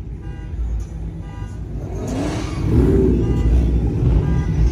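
V8 muscle car engine rumbling, then revving up about two seconds in and staying loud as the car pulls away.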